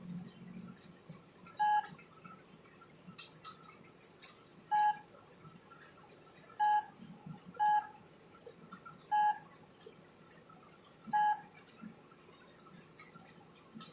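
Six short electronic beeps at one steady pitch, spaced irregularly about one to three seconds apart, with faint clicks and taps between them.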